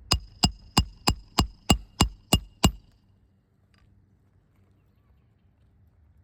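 Roofing hammer striking a steel roof snake nine times in quick succession, about three blows a second, each with a short metallic ring, driving a nail under a lifted shingle. The blows stop about three seconds in.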